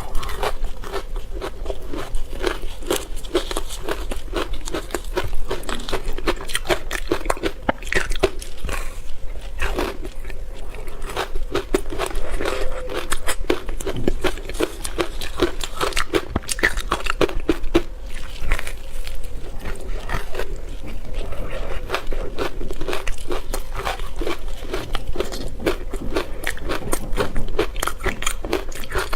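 A person biting and chewing ice, close to the microphone: a dense, continuous run of crunches and cracks without pauses.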